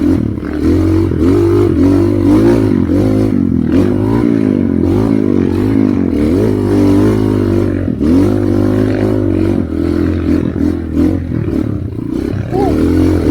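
Trail motorcycle engine revving up and down over and over, the pitch rising and falling every second or two, as on a hard enduro climb.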